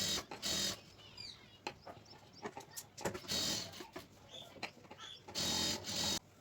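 Sewing machine stitching in three short bursts, each under a second; the last stops abruptly near the end.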